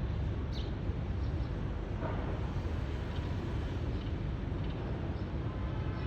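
Steady low rumble of outdoor background noise, with faint, short sparrow chirps now and then.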